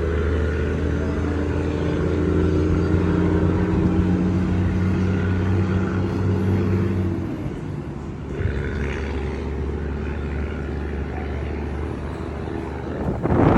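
An engine running steadily with a low hum. About halfway through, its higher tones drop away and a lower drone carries on. A brief loud rush comes near the end.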